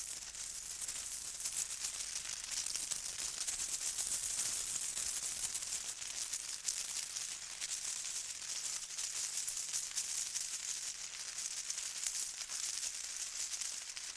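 A hand-shaken rattle of the kind used as a primitive instrument, sounding as a steady, dense, hissing rattle of many small clicks with no clear beat.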